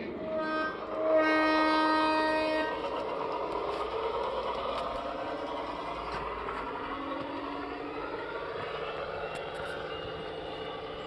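A horn sounds twice: a short blast, then a longer, louder one of about a second and a half. Steady vehicle running noise follows, its pitch sliding slowly.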